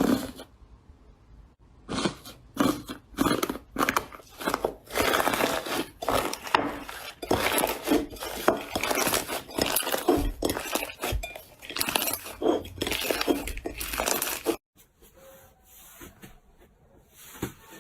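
Crunchy slime being pressed and squeezed by hand, giving dense, irregular crackling and clinking pops. About three-quarters of the way through it cuts off abruptly to much quieter, softer sounds.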